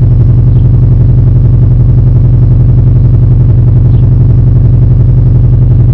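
Subaru flat-four boxer engine idling steadily just after a cold start, with a deep rumble while it warms up.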